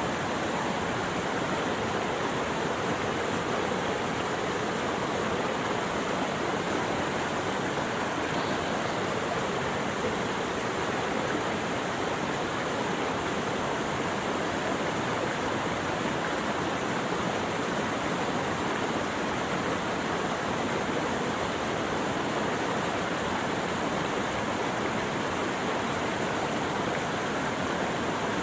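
Steady, even rush of running water, unchanging throughout, with no birds or other sounds.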